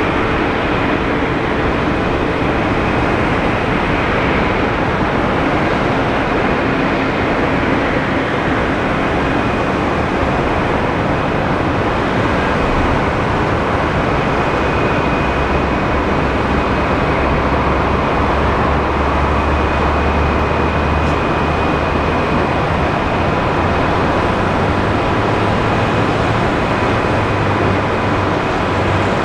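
Jet airliner engines running with a steady, even noise and a faint high whine.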